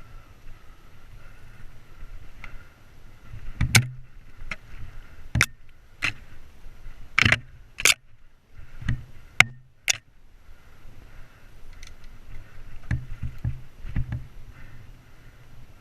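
Mountain bike riding a dirt singletrack, its tyres rumbling steadily over the ground. A run of sharp knocks and clatters comes through the middle as the bike hits bumps and roots, with a few more near the end.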